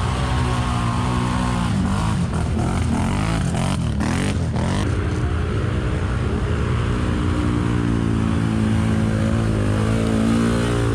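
ATV engine revving under load, its pitch rising and falling over and over, with a few brief clattering knocks around the middle.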